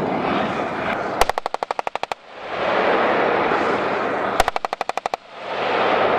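Two bursts of machine-gun fire, each of about ten rapid, evenly spaced shots lasting just under a second, the second burst about three seconds after the first. A loud rushing noise swells up before each burst and drops away after it.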